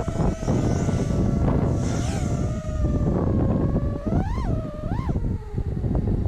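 Brushless motors and props of a 6S 5-inch FPV freestyle quadcopter whining at a fairly steady pitch, with two quick throttle punches about four and five seconds in that sweep the pitch up and back down. Wind buffets the on-board camera's microphone underneath.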